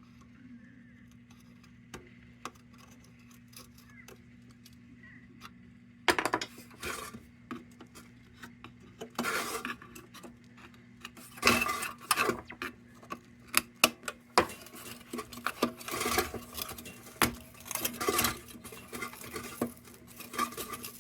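A metal tool clinking and scraping against the thin sheet-metal tab and crown of a Dietz No.1 Blizzard lantern as the bent tab is worked loose. It starts about six seconds in as a busy run of sharp clicks and scrapes.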